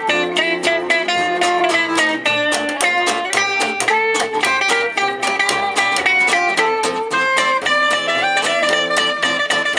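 Gypsy jazz (jazz manouche) played live by a small band: guitar plays a quick melody over steady strummed chords.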